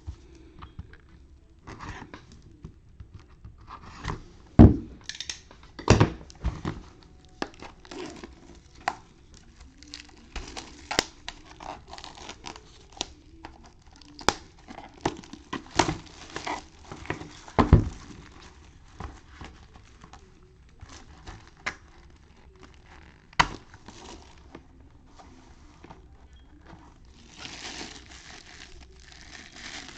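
Plastic shrink wrap being torn and crinkled off a cardboard box of trading cards, with scattered handling knocks and taps, and a longer stretch of crackling wrap near the end.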